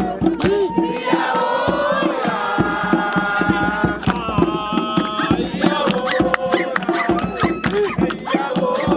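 A group of young people singing a camp song together in chorus, voices holding long notes, over a steady beat of sharp percussive strikes.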